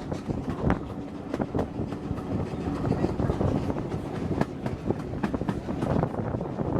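Railway carriage running along the track, its wheels clicking and clattering irregularly over the rail joints.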